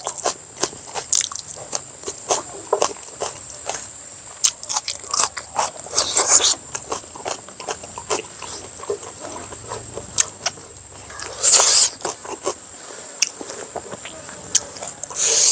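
Close-up eating sounds: chewing and smacking of a mouthful of food, heard as many short wet clicks, with two longer, louder noises about six and eleven and a half seconds in.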